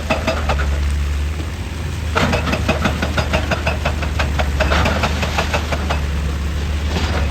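Heavy diesel machinery running steadily, with rapid metallic clattering, about ten knocks a second, strongest from about two to five seconds in.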